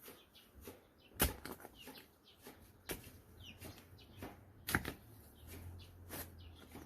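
Chickens clucking and flapping, with sharp knocks, the two loudest about a second in and just before the five-second mark, and short chirps between them.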